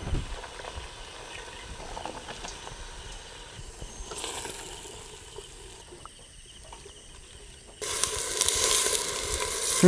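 Paneer and masala frying in a pan over a wood fire, a faint sizzle for most of the time that turns abruptly into a loud, steady sizzling hiss near the end.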